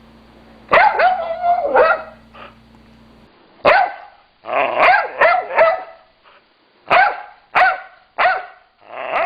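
Boxer dog barking, about ten short barks in irregular bouts of one to three, each dropping in pitch.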